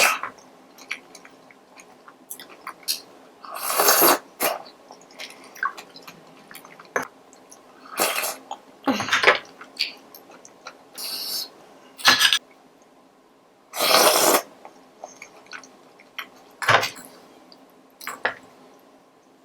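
Close-miked mukbang eating sounds: about a dozen short, loud, wet bursts of slurping and munching, with small clicks between them.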